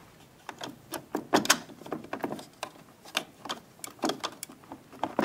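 Hard plastic parts of a Saeco Syntia automatic espresso machine being handled around its side door and brew unit: a quick irregular series of clicks and knocks, starting about half a second in.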